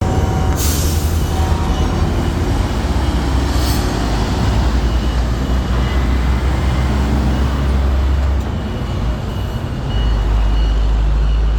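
Heavy diesel truck traffic running close by, a loud low engine rumble, with two short air-brake hisses, one under a second in and one near four seconds. The rumble eases for about a second and a half near the end, then comes back as strong.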